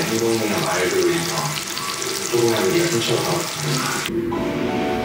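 Shrimp and garlic sizzling in olive oil in a stainless steel pan, a dense crackle, with background music under it. The sizzling cuts off about four seconds in, leaving only the music.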